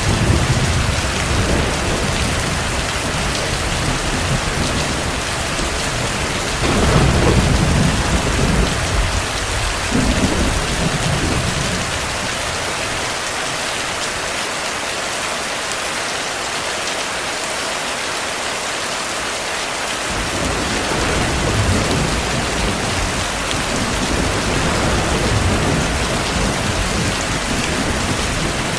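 Steady heavy rain with distant thunder rolling underneath; the loudest rumble swells about a quarter of the way in, the low rumbling fades out through the middle, and it comes back near the end.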